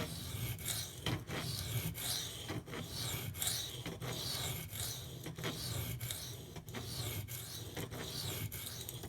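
A steel knife blade scraping across a coarse 150-grit Kyoto sharpening stone in a steady rhythm of back-and-forth passes. These are the last passes to finish raising the apex.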